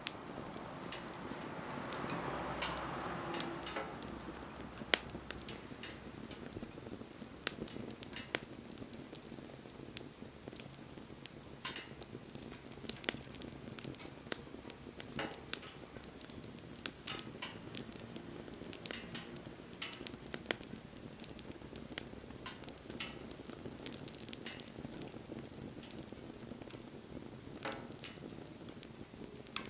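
Wood fire crackling, with irregular sharp snaps and pops over a soft steady hiss. A louder rushing hiss swells for a couple of seconds near the start.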